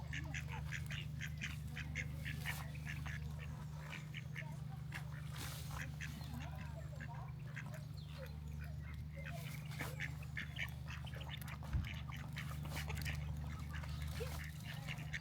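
Animal calls: rapid runs of short, high notes repeating over and over, above a steady low hum.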